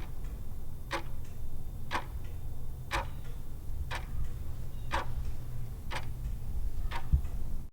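Clock ticking sound effect used as a quiz countdown timer, one sharp tick a second, over a low steady hum.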